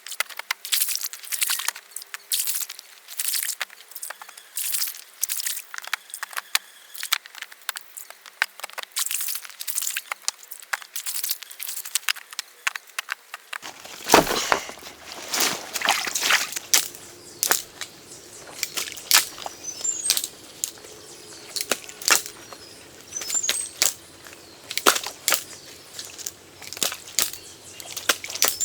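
Irregular sharp knocks and clicks, several a second.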